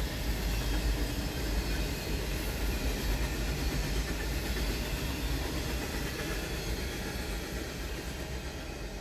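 Freight train cars rolling past on the rails, a steady rumble with wheel clatter that gradually fades as the last cars go by.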